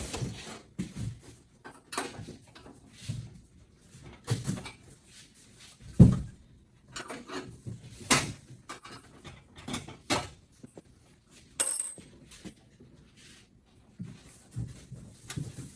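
Irregular clicks, knocks and rattles of plastic trim, clips and tools being handled while a pickup's front-end parts are taken off, with one heavier thump about six seconds in and a brief high squeak later.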